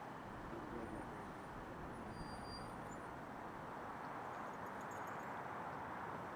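Jet aircraft engine noise, a steady rush that neither rises nor falls.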